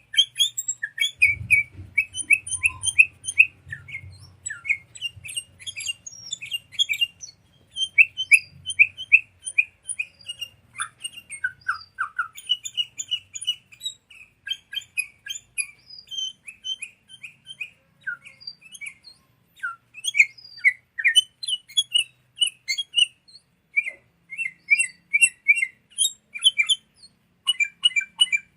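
Sooty-headed bulbul (kutilang) calls: rapid, repeated bright chirping phrases in quick runs, the kind of recording used as a lure and tutor song for training caged songbirds.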